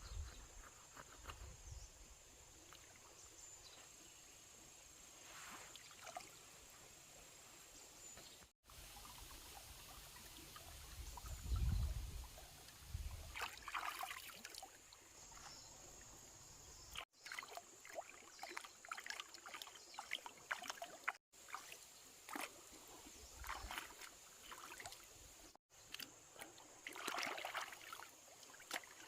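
Faint water trickling and splashing with scattered light clicks and handling noises, over a steady high-pitched hum.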